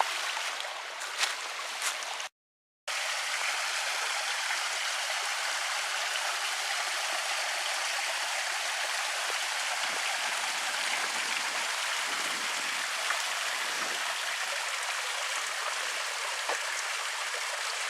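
Steady rushing of a forest stream or small waterfall, a constant hiss of running water. It cuts out completely for about half a second a little over two seconds in, then resumes unchanged.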